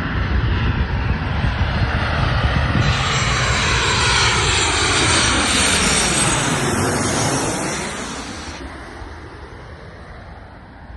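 Jet airliner passing low overhead on its landing approach: the engine noise builds to its loudest about four to six seconds in with a sweeping change in tone as it goes over, then fades away.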